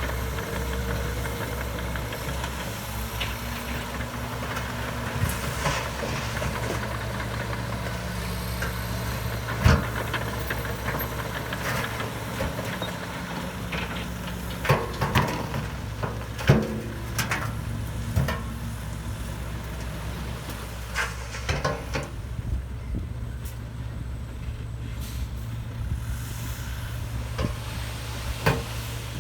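Heavy diesel earthmoving machinery running steadily, with scattered sharp clanks and knocks.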